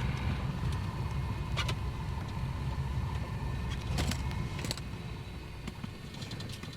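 A motor vehicle's engine running with a steady low rumble, with three sharp clicks (the last two close together), fading out over the last couple of seconds.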